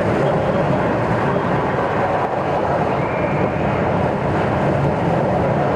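Steady diesel engine and road noise of a MAN TGX articulated lorry heard inside the cab while driving.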